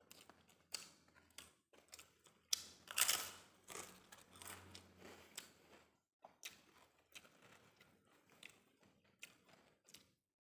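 Close-miked eating sounds: wet chewing and mouth clicks, with a louder crackling crunch about three seconds in from a bite of crisp fried cassava cracker (opak).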